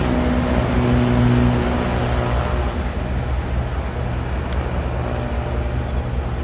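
Diesel-hauled passenger train moving away along the track: a steady low engine drone over the rumble of the wheels on the rails. The drone eases a little about three seconds in.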